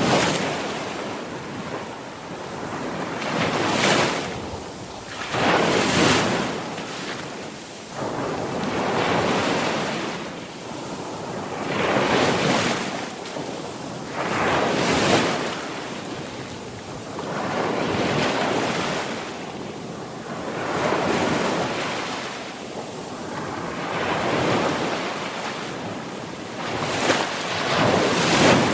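Sea waves breaking on the shore in repeated swells, a surge of surf every two to three seconds rising and washing back.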